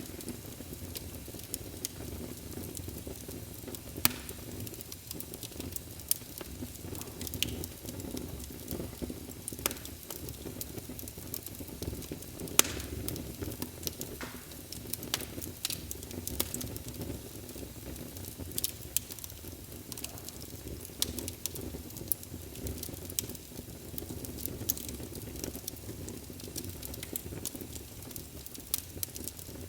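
Wood fire burning in a fireplace: a steady low rush with irregular sharp crackles and pops scattered throughout.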